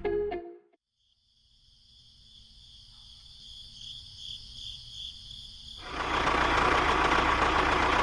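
Music cuts off, then after a brief pause a steady high, cricket-like trill slowly grows louder. About six seconds in, a loud, even engine noise with a low rumble starts and keeps going.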